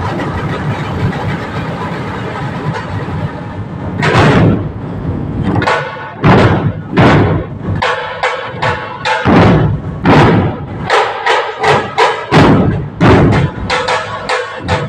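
A steady rough noise at first, then from about four seconds in, loud dhol drum strokes at an uneven pace of roughly one to two a second, each ringing briefly.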